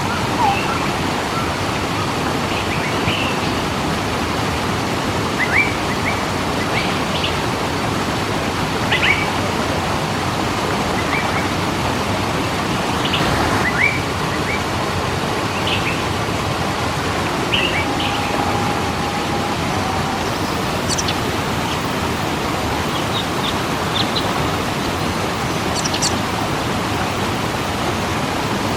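Steady rush of falling water from a waterfall, with birds chirping now and then over it in short calls.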